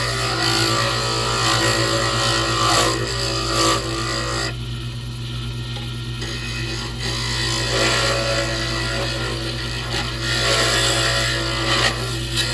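Wood lathe running with a pen blank spinning on it, a tool or abrasive rasping against the blank over a steady motor hum. The rasping drops away for a couple of seconds around the middle, then resumes.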